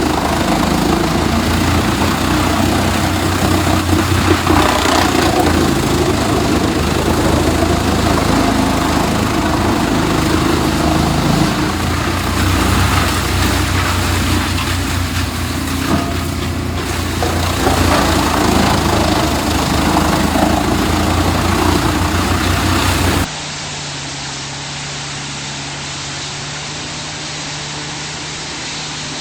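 Large wood chipper running hard: a steady engine drone under a dense noise of material going through the machine. About 23 s in it cuts suddenly to a quieter, steady machine hum.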